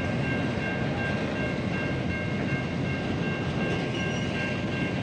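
SCT Logistics freight train rolling past, a steady rumble of wagons on the track, with faint steady high-pitched tones over it.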